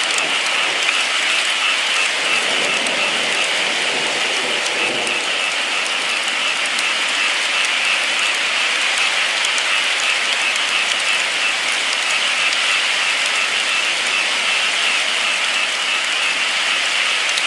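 Steady rainfall: an even hiss with a fine patter of individual drops, unchanging throughout.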